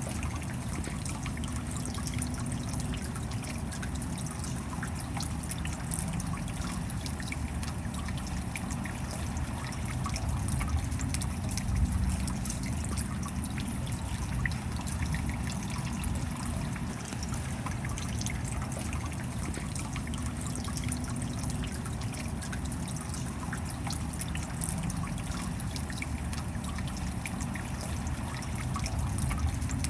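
Steady rain with a constant run of fine drips and patter, mixed with a trickle of water.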